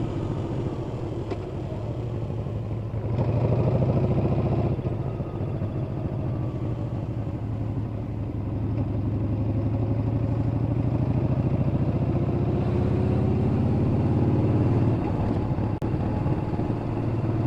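Yamaha XV950 (Bolt) air-cooled V-twin engine running while riding, its pitch following the throttle. It swells about three seconds in and eases off near five seconds, then builds steadily again and dips briefly around fifteen seconds.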